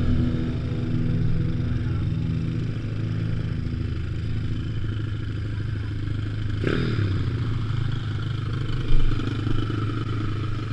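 Pit bike engine running at a steady low speed, with one sharp clack about two-thirds of the way through.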